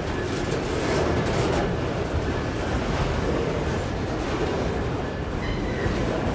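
Train rolling past on the rails: a steady, even rumble of wheels and cars that neither starts nor stops.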